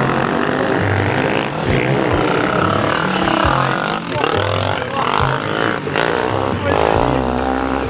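Dirt bike engines running and revving, their pitch rising and falling repeatedly.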